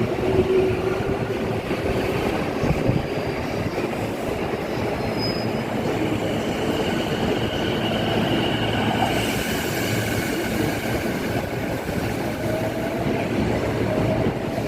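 Electric commuter train moving along a station platform: a steady rumble of wheels and motors with faint sustained whines. Wind buffets the microphone underneath.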